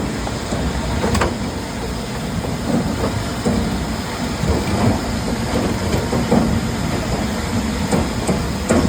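Industrial fridge-recycling machinery running: a steady heavy rumble with irregular knocks and clatter.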